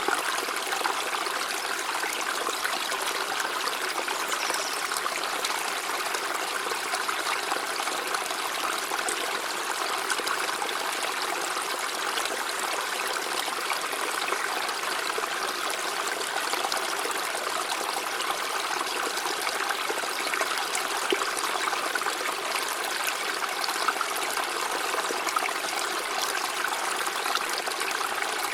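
River water flowing steadily, a constant even rush with no pauses or changes.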